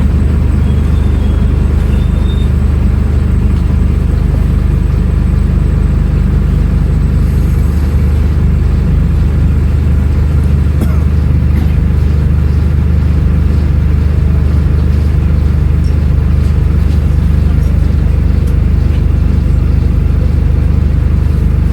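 Scania N310UA articulated city bus engine running at a steady, unchanging speed: a continuous low drone with no revving or gear changes.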